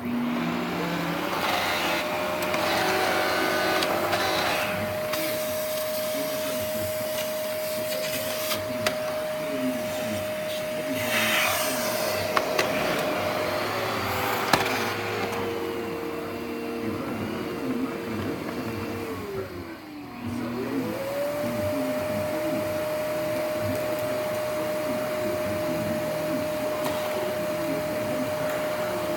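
Vacuum cleaner motor starting up and running with a steady whine. About halfway through, the pitch drops and holds lower for several seconds, then the motor nearly winds down before spinning back up to full speed.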